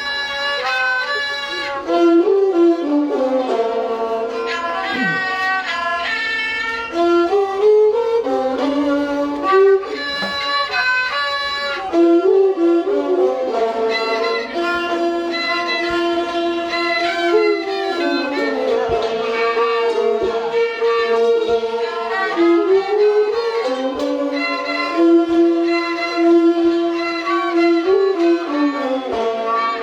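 Thai classical overture (homrong) played by an instrumental ensemble: a bowed-string melody leads, over faint percussion strokes.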